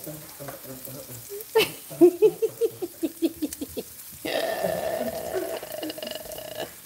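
Sliced sausages and red onions frying in a pan with a soft sizzle, under voices. A run of short rhythmic vocal sounds comes in the first half, then a steady held tone lasting a little over two seconds in the second half.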